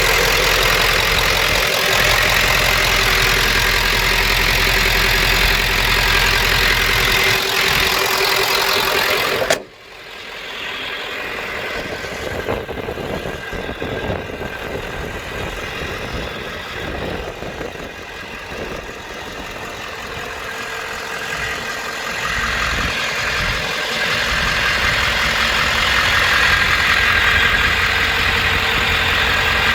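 1995 Ford F350's 7.3 L Powerstroke turbo-diesel V8 idling. The sound drops off sharply about ten seconds in, comes back quieter and uneven, and grows louder again near the end.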